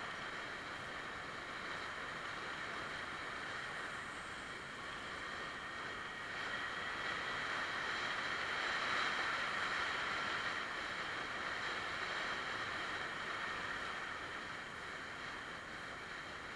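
Rush of wind and road noise on the onboard microphone of a moving Yamaha Axis 90 scooter, growing louder from about six seconds in and easing off again toward the end.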